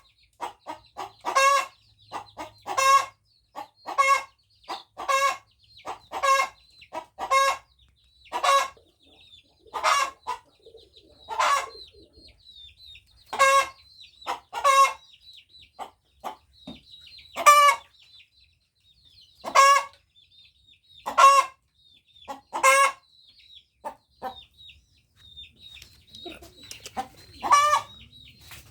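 A hen calling loudly in a long run of short, clipped notes, about one a second for the first ten seconds and then more spaced out, with softer notes in between.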